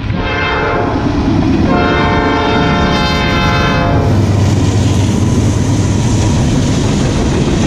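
Multi-note air horn of a Norfolk Southern GE Dash 9 locomotive sounding for a grade crossing: a brief blast, then a long blast of about two seconds that ends about four seconds in. After it the two lead Dash 9 diesel locomotives rumble past close by, with their wheels running on the rails.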